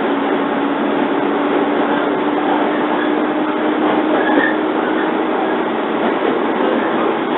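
JR 115 series electric train running, heard from inside the carriage: a steady rumble of wheels and running gear with a steady hum through it.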